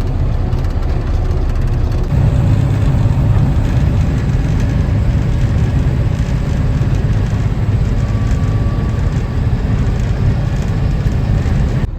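Box truck's engine running steadily, a loud low drone that grows a little louder about two seconds in.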